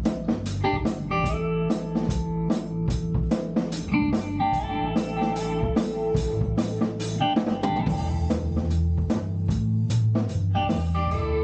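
Instrumental band music: guitar, bass and drum kit playing together with a steady beat.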